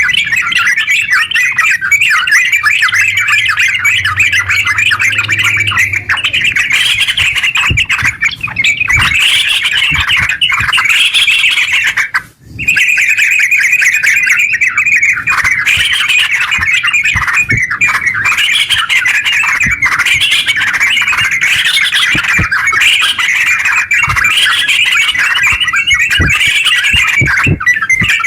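Yellow-vented bulbul (terucuk) singing in a long, rapid, unbroken run of chattering notes, the continuous full song ('ngeropel') of a bird in top form. The song breaks off briefly about twelve seconds in, then carries straight on.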